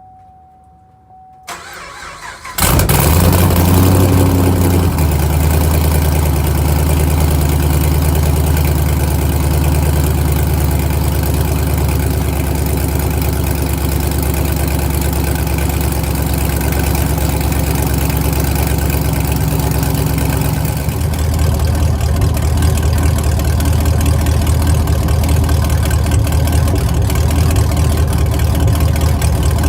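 2010 Camaro SS 6.2-litre V8 with long-tube headers, open cutouts and straight pipes, cold-started: the starter cranks briefly, the engine catches with a loud flare, then settles into a steady, loud, high cold-start idle. The idle drops a little lower about twenty seconds later.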